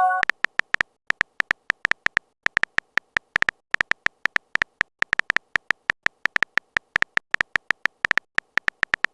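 Phone keyboard typing sound effect: a quick, uneven run of short clicking taps, about five a second.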